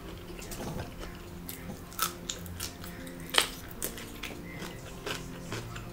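Light background music under close eating sounds: chewing, with a string of short sharp clicks and smacks, the loudest about three and a half seconds in.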